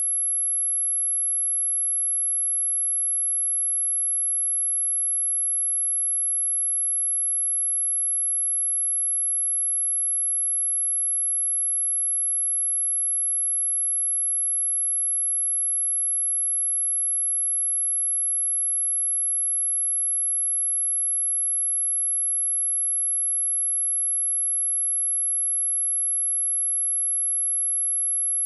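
A steady, high-pitched 11127 Hz sine-wave test tone, one pure unbroken pitch at constant level, used as a speaker test and speaker-cleaning tone.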